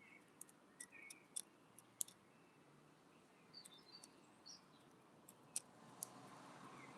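Irregular sharp clicks and taps of a wood pigeon's beak pecking at seed on a window bird feeder, about a dozen in all, bunched in the first two seconds and again near the end. Faint chirps of small birds come in between.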